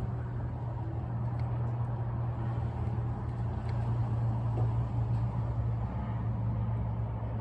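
A steady low hum, like a running motor, with a few faint ticks over it.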